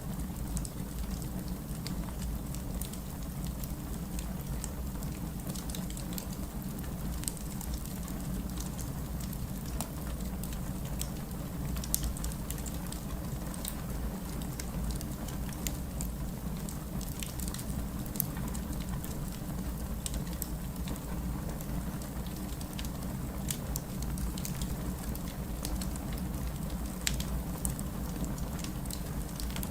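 Steady rain, with a wood fire crackling in short, scattered pops over it.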